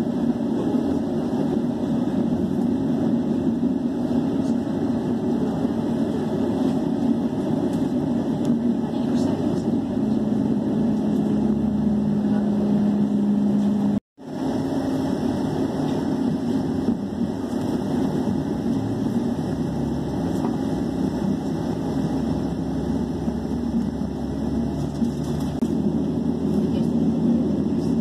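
Passenger train running at speed, heard from inside the carriage: a steady rumble of wheels and running gear. A steady hum joins it about a third of the way in, and the sound cuts out for a split second about halfway through.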